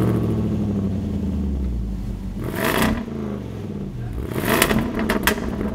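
Land Rover Defender V8's supercharged 5.0-litre V8 idling through its quad-tailpipe exhaust. It is revved briefly twice, about two and a half seconds in and again about four and a half seconds in, each time dropping back to idle.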